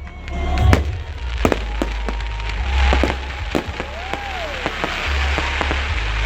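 Fireworks going off: many sharp bangs and crackles in quick, uneven succession over a low rumble, with a thicker stretch of crackling about three seconds in.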